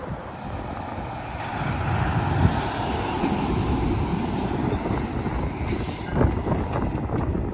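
Semi-truck passing on a highway: a rush of tyre and engine noise that swells about a second and a half in and stays loud, over a deep rumble.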